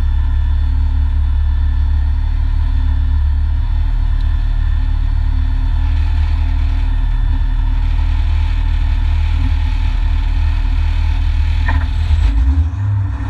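Renault Mégane N4 rally car's engine idling steadily, heard from inside the stripped cabin, with a low hum and no revving.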